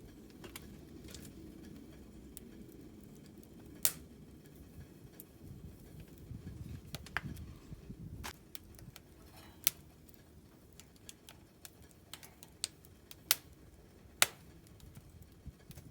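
Scattered sharp clicks and light taps, about half a dozen at irregular intervals, over a low steady rumble.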